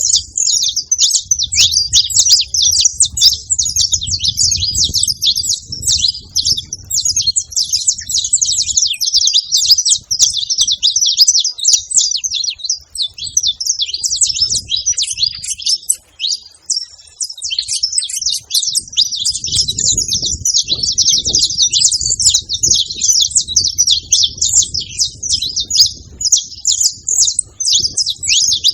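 Saffron finch singing: a continuous run of rapid, high chirping notes that barely lets up, with a brief break about halfway through.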